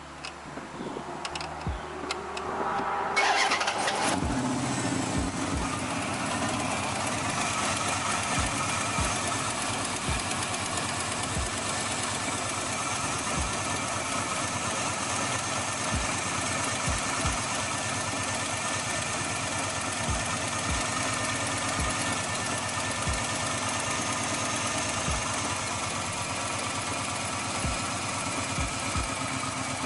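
Car engine cranking and catching about three seconds in, then idling steadily.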